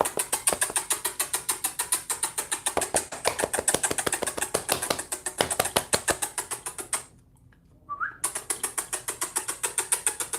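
A fast, even run of sharp clicks, about six or seven a second, made to rouse sleeping puppies. The clicks pause about seven seconds in, a short rising squeak comes during the pause, and then the clicking starts again.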